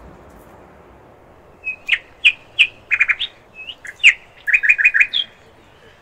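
A bird singing: a quick series of loud, short, sharp chirps starting about two seconds in, some in fast clusters, stopping shortly before the end.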